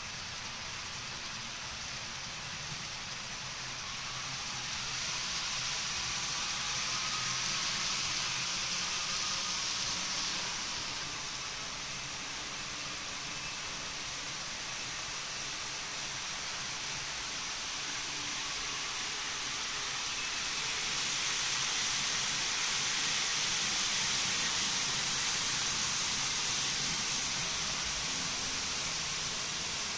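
N-gauge model train running on the layout's track: a steady hissing rolling and motor whir that swells twice, about five seconds in and again about twenty seconds in, as the train passes close by.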